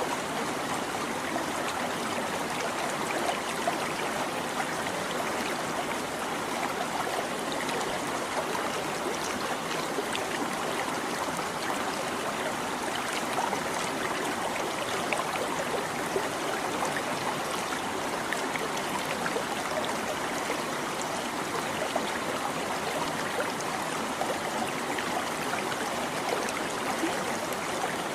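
A small stream babbling and trickling over rocks: a steady, even rush of running water with small splashes and gurgles.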